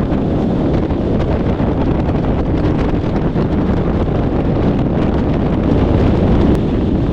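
Motorcycle riding at road speed: heavy, steady wind buffeting on the microphone over the rumble of the bike.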